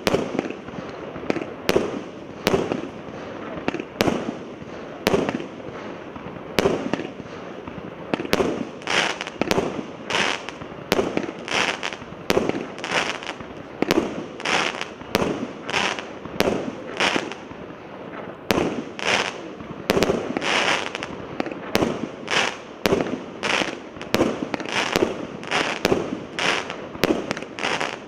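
Multi-shot fireworks cake (LDC601, 300 shots) firing continuously: one to two sharp reports a second, each trailing off briefly as the shells burst.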